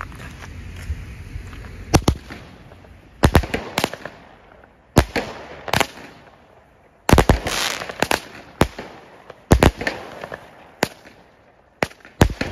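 Weco Ghost Lights 20 mm fireworks battery (cake) firing its shots: about a dozen sharp bangs at irregular intervals, some in quick pairs, several trailing off briefly after the bang.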